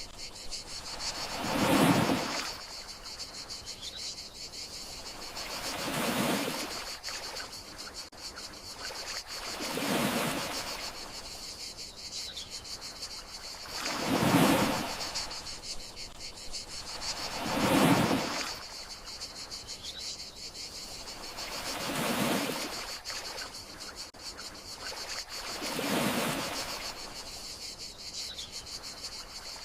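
Gentle sea waves washing onto the shore, each swell rising and falling about every four seconds, under a steady high chirring of crickets.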